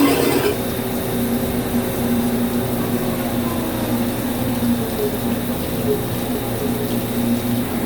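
Lathe running steadily: a machine drone with a few held tones. A rougher, hissing noise stops about half a second in.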